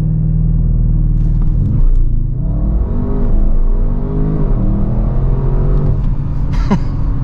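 Audi RS6 Avant's 4.0-litre twin-turbo V8, heard from inside the cabin, held at steady launch-control revs for about two seconds. It then launches, and the engine note climbs and drops through several quick upshifts under full acceleration before settling near the end.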